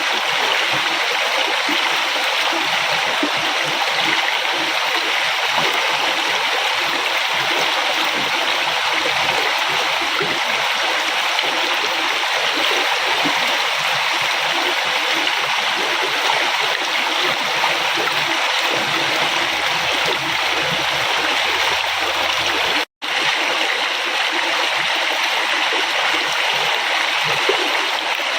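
River water flowing in a steady, even rush. The sound drops out to silence for a split second about three-quarters of the way through.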